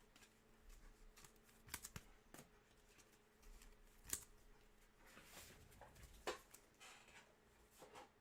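Faint handling of trading cards: a scattering of soft clicks and short rustles as cards are flipped and slid through the hands.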